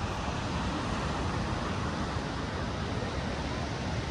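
Steady rushing noise of ocean surf and wind at the shore, even in level with no single wave crash standing out.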